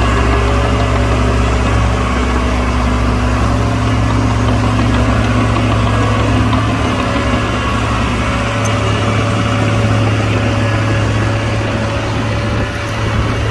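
Heavy-equipment diesel engine running steadily with a deep hum; about two-thirds of the way through, the lowest part of the hum drops away and the engine note changes.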